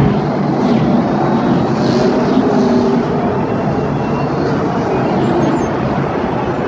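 Car engines running, loud and steady.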